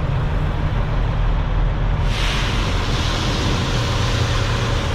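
Heavy diesel engine idling low and steady. About two seconds in, a loud steady hiss joins it and holds.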